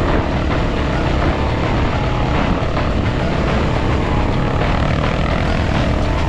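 Enduro dirt bike engine running steadily and loudly.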